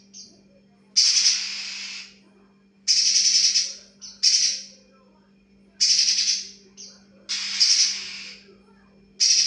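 Spiderhunter (pijantung) giving six harsh, rasping calls about a second long each, roughly every second and a half, with a few short chips between them, over a steady low hum.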